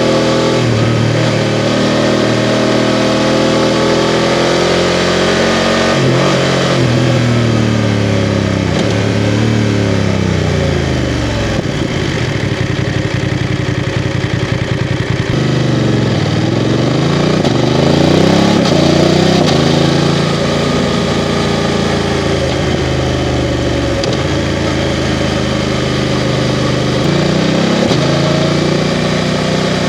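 BMW F 750 GS motorcycle's parallel-twin engine under way, its pitch rising under acceleration and falling again several times as the rider shifts and slows. Around the middle it drops to a low, slow beat before pulling up again.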